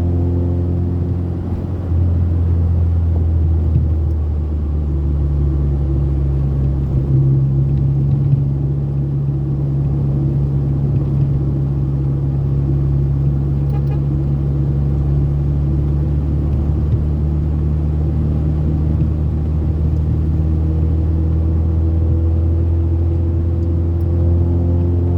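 Old Toyota Corolla sedan (AE80-series) at speed: a steady, loud engine drone with low road rumble. There is a brief dip in level about two seconds in, and the pitch rises slightly near the end.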